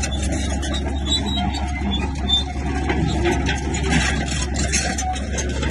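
Heavy diesel earthmoving machinery running steadily under load.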